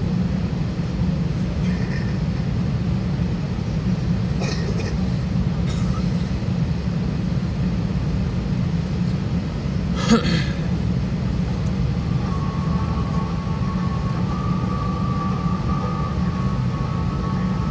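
Steady low rumble inside an Airbus A320 airliner's cabin on the ground, with a single sharp click about ten seconds in. A faint steady high tone joins from about twelve seconds.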